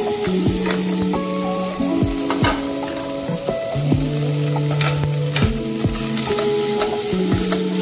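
Minced meat fried with carrots and onions sizzling steadily as it is tipped into a hot pot and stirred with a wooden spoon, with a few short scrapes. Background music with held notes plays underneath.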